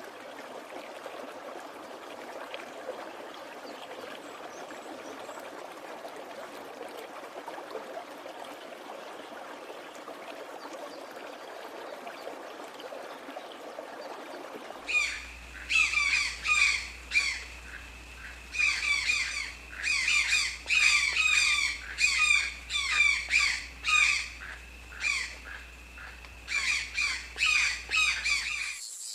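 A steady rush of running water for about half the time, then an abrupt change to birds giving loud, harsh, repeated squawks in quick runs of calls, with a steady high tone beneath them.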